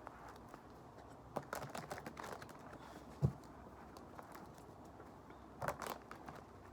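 Tarot cards being shuffled and handled: two spells of crackly rustling and card clicks, with a single dull thump about halfway through.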